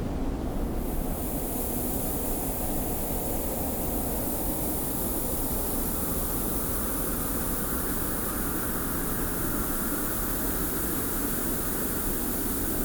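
Steady desert wind blowing, with a hiss of wind-blown sand; a higher rushing gust swells in about halfway through.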